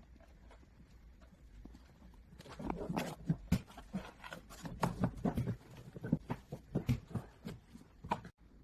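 Irregular run of clicks and knocks, parts being handled and fitted together during assembly, starting a couple of seconds in.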